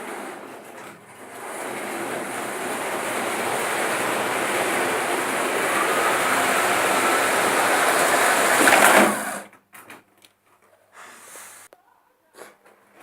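Märklin model train running on its track, the motor and wheel noise growing steadily louder with a faint rising whine. It stops abruptly about nine seconds in, leaving only faint scattered noises.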